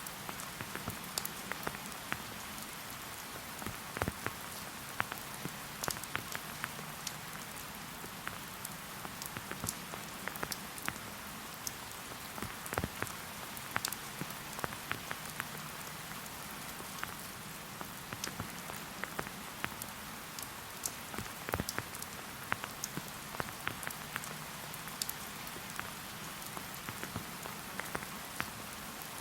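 Steady rain falling on a forest, an even hiss with many separate drops ticking sharply on leaves and surfaces throughout.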